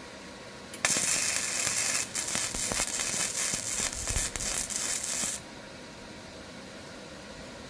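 Electric arc welder crackling as a bead is laid on the broken lawnmower handle: one run of about four and a half seconds, starting about a second in and cutting off suddenly.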